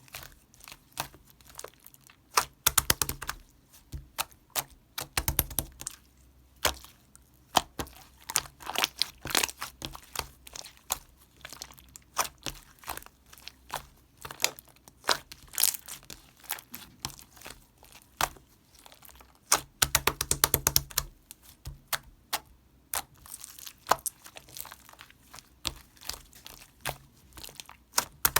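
Hands pressing, stretching and folding slime: a continuous run of small sticky clicks, pops and crackles, with a few heavier squishes a few seconds in and again about two-thirds of the way through.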